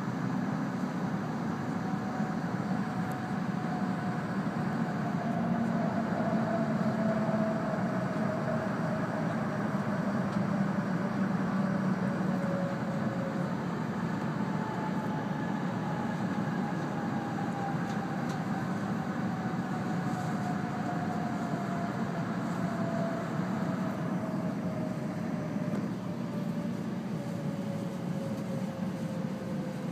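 Cabin noise of an E2-series Shinkansen braking into a station: a steady rumble with a traction-motor whine that slides slowly down in pitch as the train slows.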